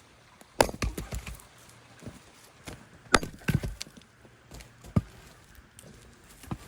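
Firewood being split with an axe: two sharp strikes about two and a half seconds apart, each followed by a short run of cracking and knocks, then a couple of lighter single knocks.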